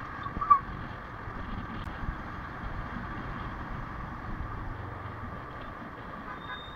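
Royal Enfield Himalayan's 411 cc single-cylinder engine running steadily as the motorcycle rides through city traffic, with wind on the microphone. A brief sharp sound stands out about half a second in.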